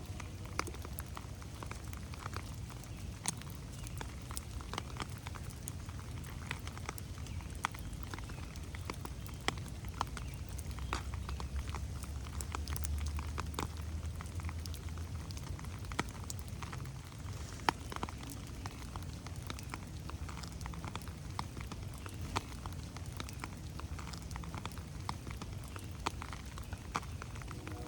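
Steady rain in a forest, with many irregular sharp drops pattering on leaves over a low rumble that swells slightly around the middle.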